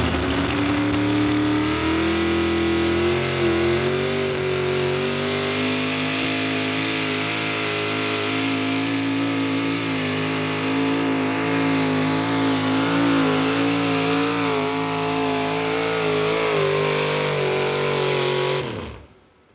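Outlaw 4x4 pulling truck's engine at full throttle under load during a pull. Its pitch climbs over the first few seconds, then holds with small wavers. Near the end the revs drop off sharply and the sound dies away as the throttle is let off.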